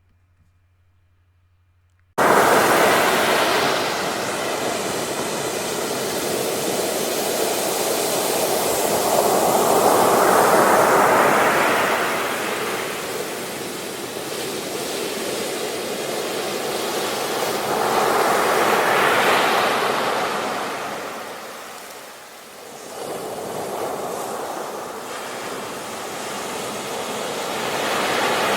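Rushing sound of ocean waves, cutting in suddenly about two seconds in and swelling and falling back in slow surges about every eight to nine seconds.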